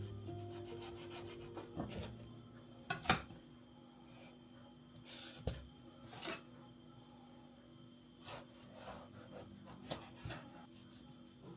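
Soft rubbing and scraping handling sounds with scattered light knocks and clicks, the loudest a sharp knock about three seconds in. Background music fades out in the first two seconds.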